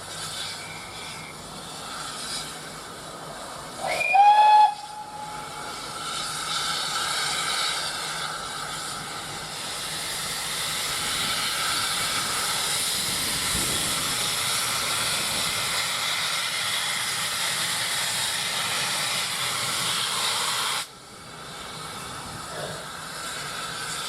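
Steam locomotive giving a short whistle blast, then a long steady hiss of escaping steam that cuts off suddenly near the end.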